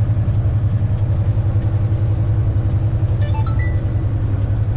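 Semi-truck diesel engine droning steadily in the cab while cruising, a low, even, pulsing hum. A few short high tones sound about three seconds in.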